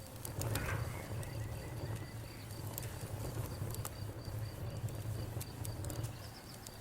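Campfire burning, with irregular sharp crackles over a low rumble of flame. A cricket chirps steadily in an even, high-pitched pulse throughout.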